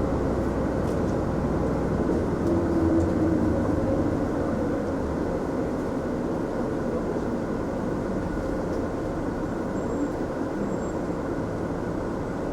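Mitsubishi Fuso Aerostar city bus running, heard from inside the passenger cabin: a steady, low engine and road noise. It grows a little louder about two to three seconds in.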